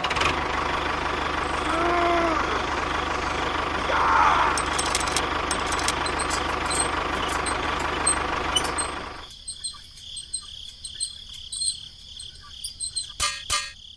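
Small electric motor of a DIY model construction machine running with a dense, steady rattling buzz. It stops abruptly about nine seconds in, leaving scattered clicks and a faint high whine.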